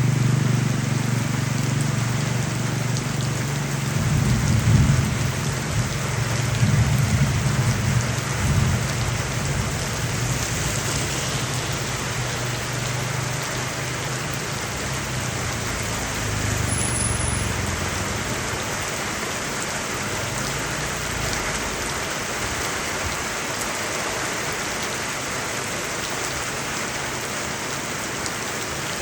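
Heavy rain pouring steadily, with a low rumble during the first ten seconds or so that fades away.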